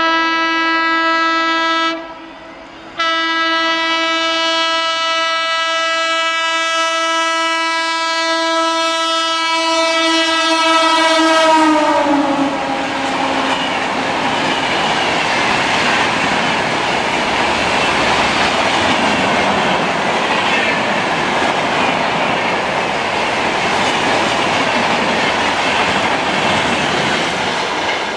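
A high-speed train's horn held in one long blast as it approaches, with a short break about two seconds in. Its pitch drops sharply about twelve seconds in as the locomotive passes, then a loud, steady rushing noise of the train going by takes over.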